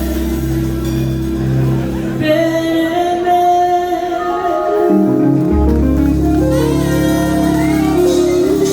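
Live band music with singing in a hall; the low bass drops out for a few seconds midway and then comes back in.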